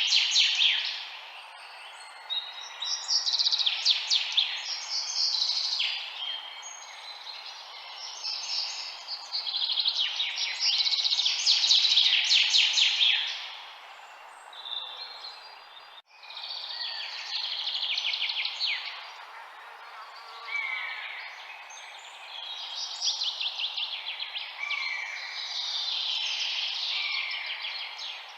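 Several songbirds singing together in overlapping phrases of rapid high trills and short falling notes, over a steady low hiss. The sound drops out abruptly for an instant about halfway through.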